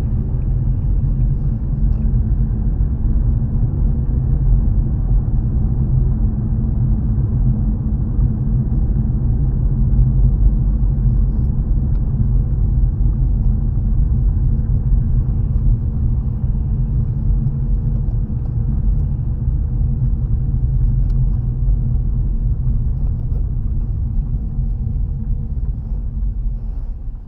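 Steady low rumble of a car driving on a wet road, heard from inside the cabin: tyre and engine noise, fading near the end.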